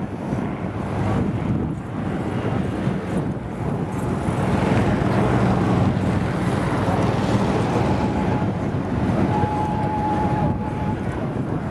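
An engine running steadily with a low hum, with wind buffeting the microphone; a thin high tone joins about eight seconds in.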